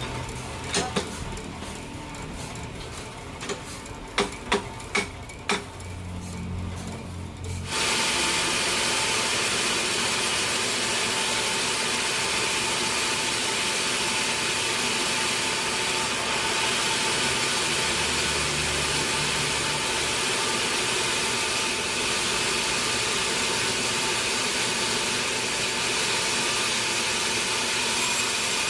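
A few sharp knocks, then about eight seconds in a sawmill saw starts cutting a large teak log and runs through it steadily.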